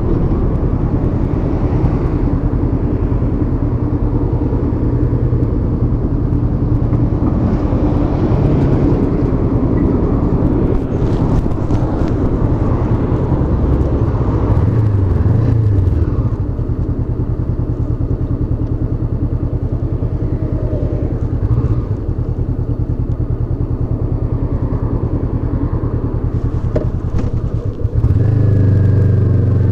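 Honda CB500X's parallel-twin engine running at speed. The engine note shifts briefly in the middle. It dips about two seconds before the end, then comes back louder with a rising pitch.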